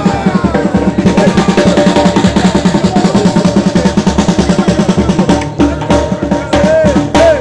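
Fast, loud drumming: a dense roll of rapid strokes that thins out about two-thirds of the way in, with voices rising over it near the end.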